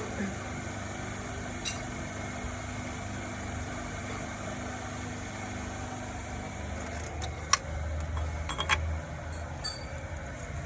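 Toyota Corolla XLi engine idling steadily, with a few sharp metallic clinks near the end.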